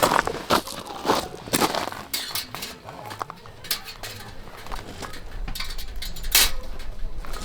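Irregular clinks, knocks and rustles of camping gear being handled. A low rumble of wind on the microphone sets in about five seconds in.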